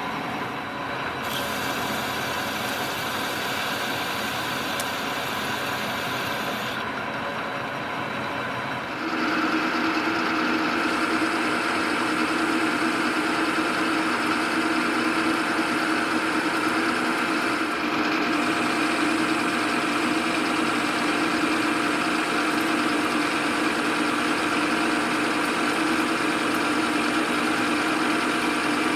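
Metal lathe running and turning a steel wheel blank, a steady machine hum with fixed tones that shifts several times; about nine seconds in it grows louder, with a stronger hum that holds to the end.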